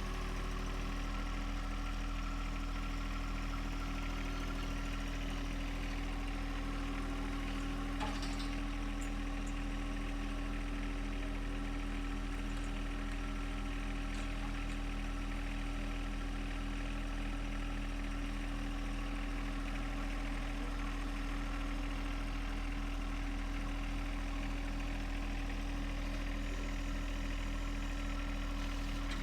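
An engine running steadily at an even speed, with one short sharp knock about eight seconds in.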